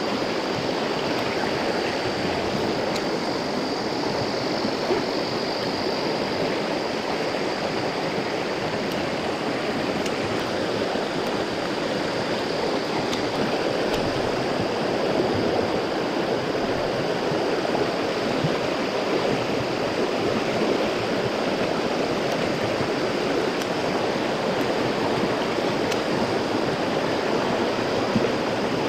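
Mountain stream rushing steadily over rocks, the water running full after rain.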